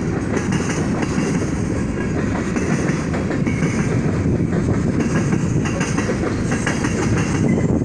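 Freight train's cars rolling past, a steady rumble of steel wheels on the rails.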